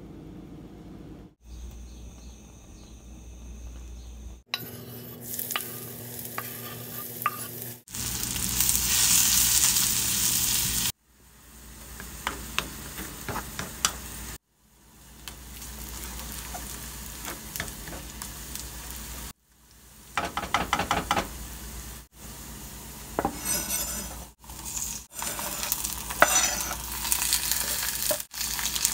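Food frying in oil in a pan, sizzling, with a utensil stirring and scraping against the pan. The sound cuts off and changes abruptly every few seconds, loudest and most sizzling about eight to eleven seconds in.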